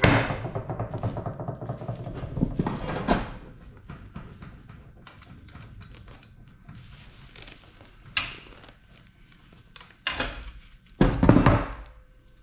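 Scattered clanks and knocks of scrap metal being handled while an air-conditioning unit is torn down: a loud hit at the start with a few seconds of clatter, then single knocks, and a louder cluster of knocks near the end. Background music is dying away in the first seconds.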